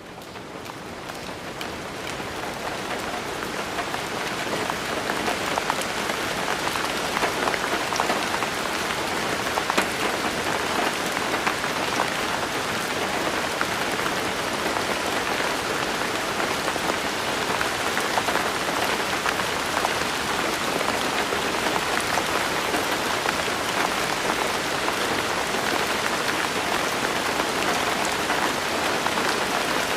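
Steady rain falling on hard surfaces, a dense patter of many drops with fine individual ticks, fading in over the first few seconds.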